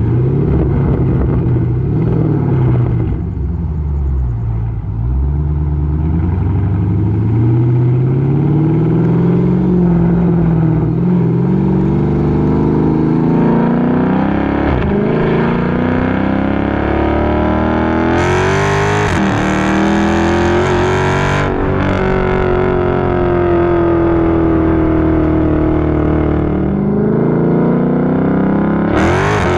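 Dodge Charger SRT 392's 6.4-litre HEMI V8 running loud through a straight-piped exhaust, with the mid-muffler and resonator deleted and the factory cats kept. The engine note falls and climbs with engine speed, breaks briefly several times in the second half, then holds steady for a few seconds before swinging again near the end.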